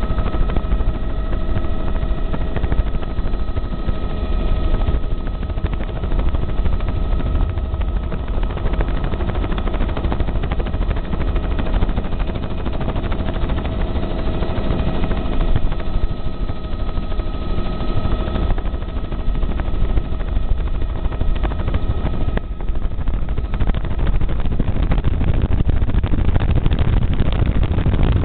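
Helicopter in flight: steady, loud rotor and engine noise with a steady whine over it.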